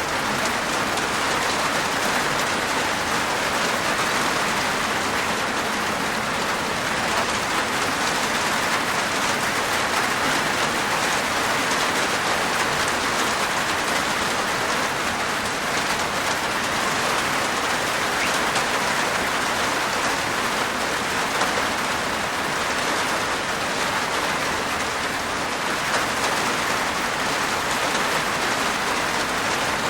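Steady rain falling on a roof, a dense even patter of raindrops.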